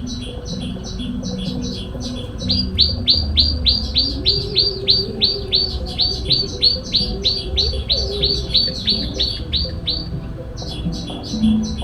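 Small songbird calling: a fast, even series of sharp falling chirps at about three a second, with a choppier chattering series of notes at the start and again near the end.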